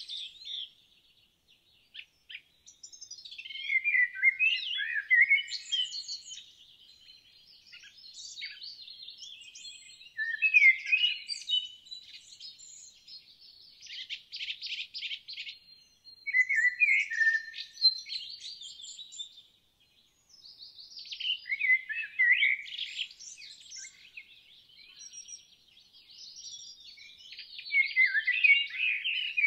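Songbirds singing in repeated phrases of chirps and trills, with short pauses between phrases. One phrase about two thirds of the way through is a fast, even trill.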